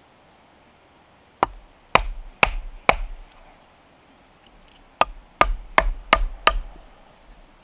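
A hand tool striking wood in two runs of blows, four and then five, about two a second with a pause between.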